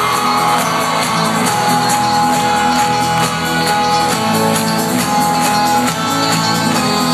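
A folk-rock band playing live at full volume, with the concert crowd shouting and singing along.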